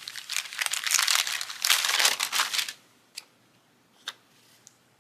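Sticker sheets being handled, crinkling and rustling for about two and a half seconds, then a couple of soft clicks.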